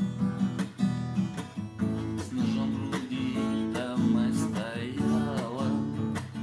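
Acoustic guitar strumming chords in an instrumental passage between verses of a song.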